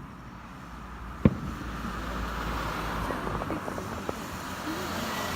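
A fireworks shell bursts once with a sharp bang about a second in, over steady background noise.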